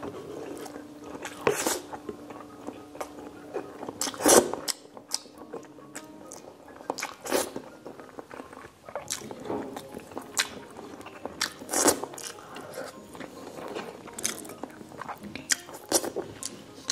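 Close-miked chewing of rice and saucy pork asado: wet mouth smacks and clicks at irregular intervals, the loudest about four seconds in and again near twelve seconds.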